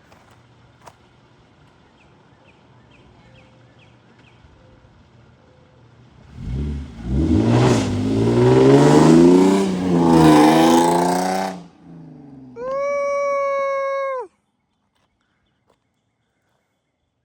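Car engine revving hard several times, its pitch climbing and falling. A car horn then sounds once in a steady tone for about a second and a half and cuts off suddenly.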